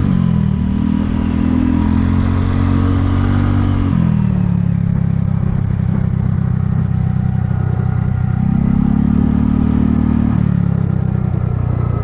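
Kymco People 250 scooter's single-cylinder four-stroke engine pulling under throttle while riding, its pitch rising at the start, easing off about four seconds in, then rising again about eight and a half seconds in and dropping back near the end. Its exhaust leaks are sealed with high-heat epoxy, and the owner finds it sounds quieter and more like a normal scooter.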